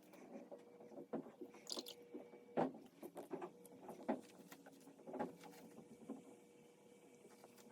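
Faint, irregular taps and scrapes of brushwork on the painting, heard sped up, about a dozen short ticks with the sharpest about two and a half seconds in, over a faint steady hum.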